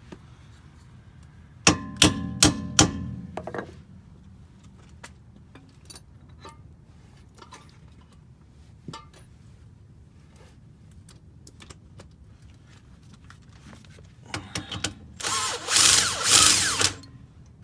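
Four ringing metal-on-metal clanks about two seconds in, followed by light clicks and knocks of tools on metal; near the end a power tool runs in several short bursts.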